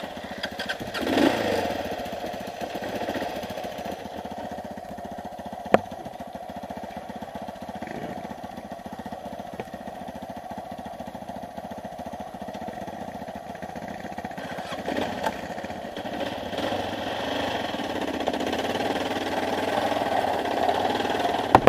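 Dual-sport motorcycle engine running at low speed while crawling over rock, with a short burst of throttle about a second in and a single sharp knock around six seconds. Over the last several seconds the engine works harder and louder.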